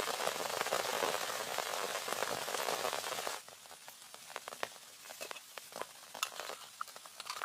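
Heavy rain hissing steadily, cut off abruptly a little over three seconds in. After the cut come quieter, scattered light crackles and ticks.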